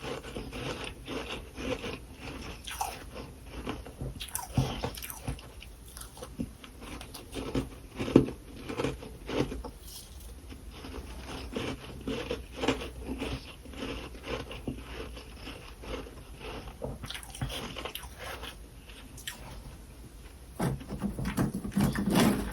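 Close-up biting and crunching of freezer frost, irregular crisp crunches between chews, growing louder and heavier near the end.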